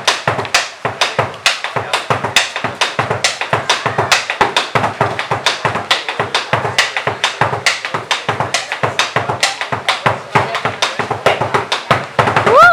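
Malambo zapateo: rapid, rhythmic foot stamping and tapping on a wooden floor, several strikes a second, with drum beats mixed in. A rising pitched cry starts right at the end.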